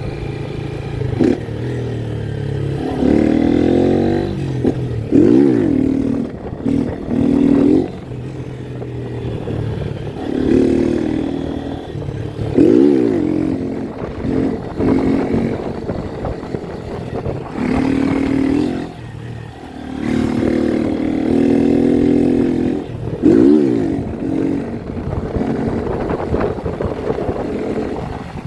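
Motorcycle engine revved hard in repeated bursts every few seconds, the pitch climbing and dropping with each throttle blip, as in wheelie practice.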